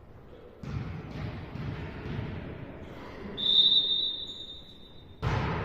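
Volleyball being struck a couple of times near the start, then a referee's whistle blowing one long, steady, shrill blast from about three and a half seconds in.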